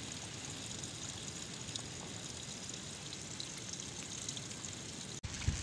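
Steady heavy rain falling on leaves and standing water, with scattered ticks of single drops.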